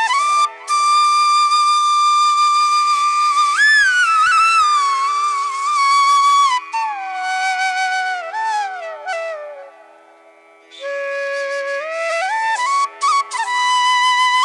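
Background music: a solo flute melody with sliding, bending notes over a steady drone, softening about ten seconds in before the melody resumes.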